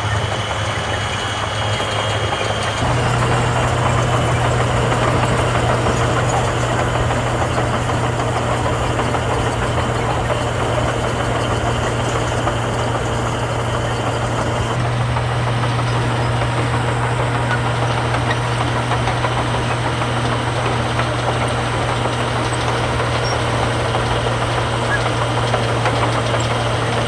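Heavy diesel engine of earthmoving machinery running steadily. It gets a little louder about three seconds in and shifts slightly again about halfway through.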